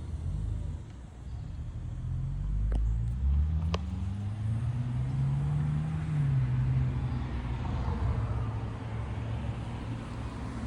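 Jaguar XJS 5.3-litre V12 engine running, revved up twice in slow climbs and let fall back to a steady idle, with two short clicks during the revs.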